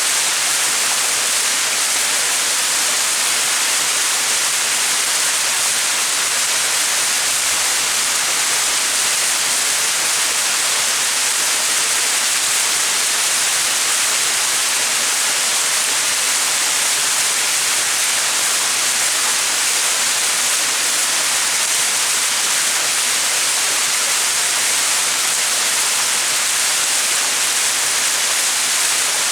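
Small mountain waterfall: water splashing and rushing steadily, a constant hiss weighted toward the high end with little low rumble.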